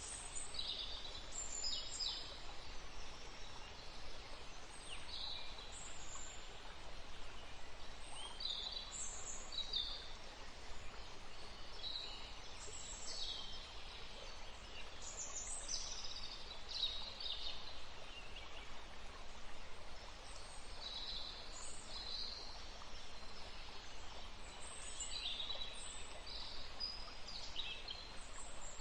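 Birds chirping: many short, high calls scattered throughout, over a steady background hiss.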